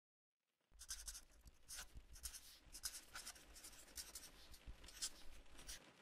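Faint pen scratching across paper in quick, irregular writing strokes, starting about a second in.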